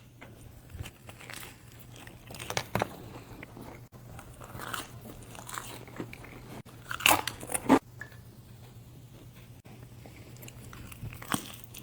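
A person biting and chewing crunchy food close to the microphone, with scattered crackly crunches and the loudest cluster of bites about seven to eight seconds in.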